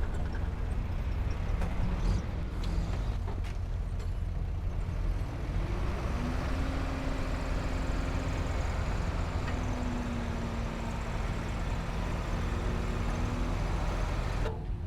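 Heavy diesel earthmoving machinery running with a steady low rumble. About six seconds in, an engine tone rises and then holds for several seconds. The sound changes abruptly just before the end.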